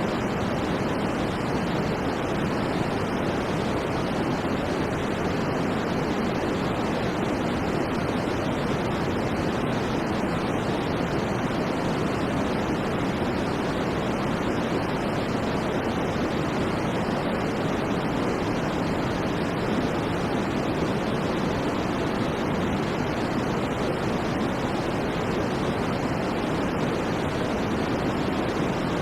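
Steady white noise for sleep, an even hiss without any change, with its weight in the low and middle range and little in the highs.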